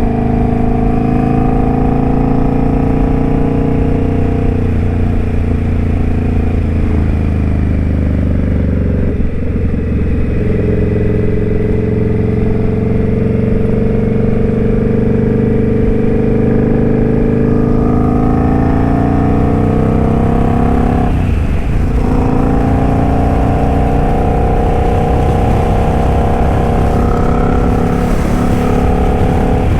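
Indian Scout Bobber's V-twin engine running under way at road speed, its pitch drifting slowly up and down with throttle. The pitch dips briefly twice, about nine and about twenty-one seconds in.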